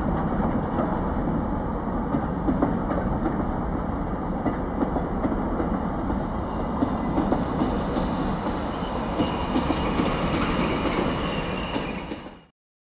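Container wagons of a freight train rolling past: a steady rumble of steel wheels on rail with scattered clicks at the rail joints, fading out about a second before the end.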